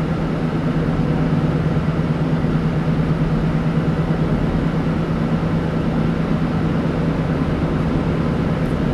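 Car cabin road noise while driving at highway speed: a steady drone of engine and tyres with a low hum.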